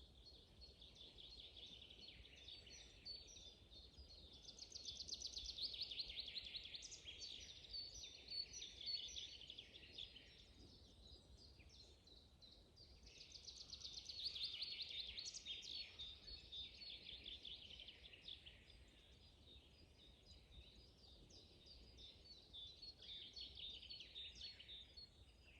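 Woodland songbirds singing faintly: fast, chirping and trilling phrases that overlap, growing louder for a few seconds about four seconds in and again around fourteen seconds, over a faint low background hum.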